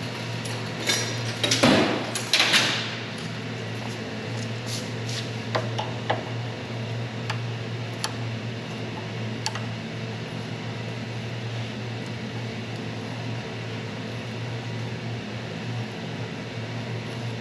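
A steady low hum with metal clanks and clinks: two louder clatters in the first few seconds, then scattered sharp ticks that die away after about nine seconds, leaving only the hum.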